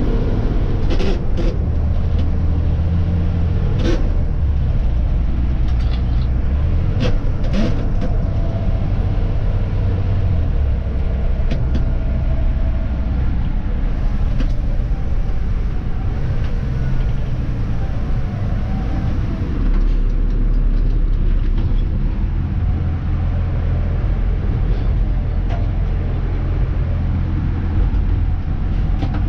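Dennis Elite 2 refuse truck's diesel engine running as the truck drives, with a steady low rumble that shifts in pitch a couple of times. A few sharp knocks and rattles come in the first eight seconds or so.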